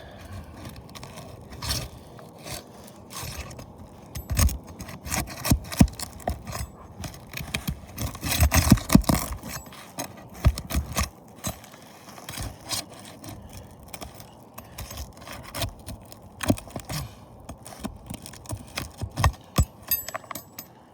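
A roof shingle being pried and worked loose with a metal bar: irregular scraping with sharp clicks and knocks, busiest about halfway through.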